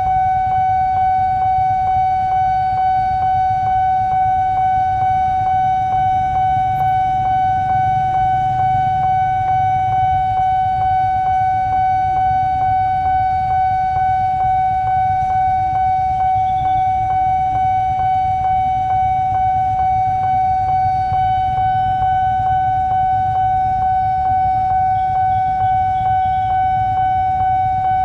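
Railway level-crossing warning alarm sounding while the barrier is down: a steady high-pitched electronic tone with a rapid, regular pulse. Under it, the low rumble of idling motorcycle engines waiting at the crossing.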